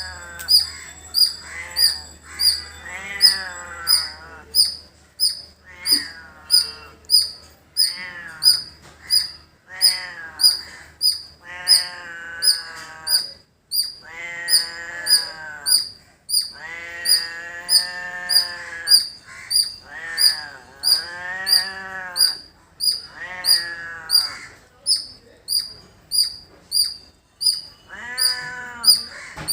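A squirrel calling with short, sharp, high chirps repeated evenly, about three every two seconds, with longer drawn-out wavering calls from another animal coming and going between them.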